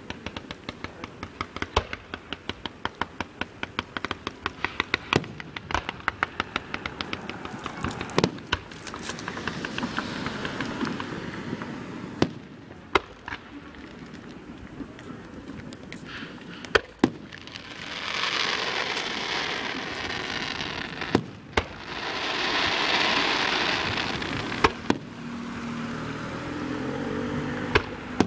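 Fireworks going off: aerial shells bursting with sharp booms every few seconds. Rapid crackling runs through the first several seconds, and a long hissing rush comes later.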